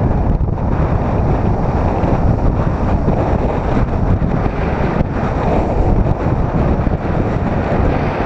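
Strong wind buffeting the microphone in a steady rumble, over North Atlantic surf breaking on a rocky shore.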